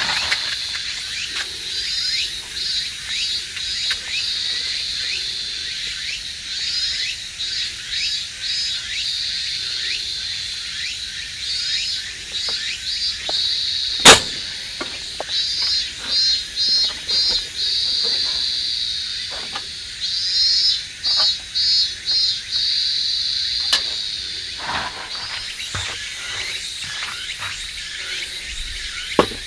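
Insects chirping: a steady high-pitched trill with repeated short runs of pulsed chirps. A single sharp snap cuts in about halfway through, and a smaller one comes near the end.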